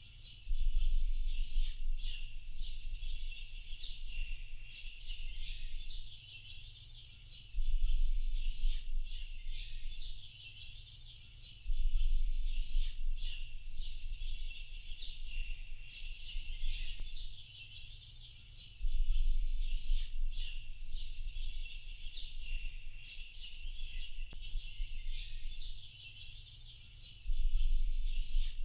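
A dense chorus of small birds, many chirps overlapping in a steady high twitter. Under it a deep low rumble swells suddenly about every four to eight seconds and slowly fades, louder than the birds each time.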